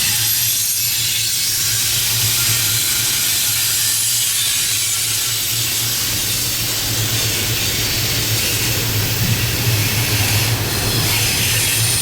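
CSX intermodal freight train rolling past, a steady rumble and hiss of wheels on the rails.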